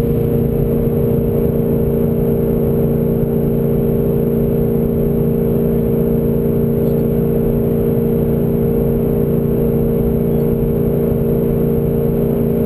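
Car engine with road and wind noise heard inside the cabin at a steady high-speed cruise: one even drone that holds its pitch and level without revving up or down.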